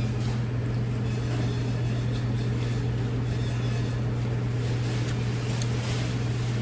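A steady low hum runs on unchanged, with a few faint clicks over it.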